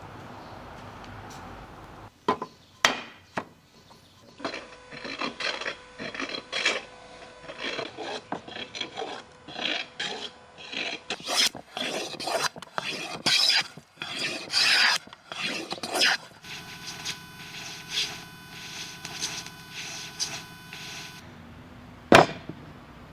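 Hand tool rasping across wood in repeated irregular strokes, about one or two a second, with a few short knocks before the strokes begin and a single sharp knock near the end.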